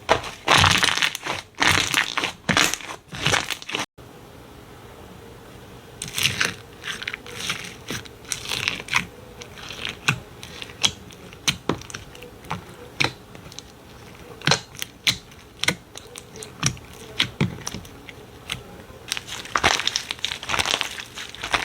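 Slime being handled, squished and pressed, giving crackling, popping clicks. The clicks are dense at first, break off abruptly about four seconds in, return as scattered pops, and grow dense again near the end.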